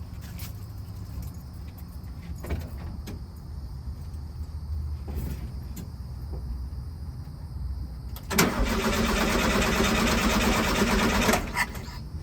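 A 1973 VW Super Beetle's starter cranking the air-cooled flat-four for about three seconds, starting about two-thirds of the way in, after a few faint clicks. The engine does not catch, because the ignition is giving no spark.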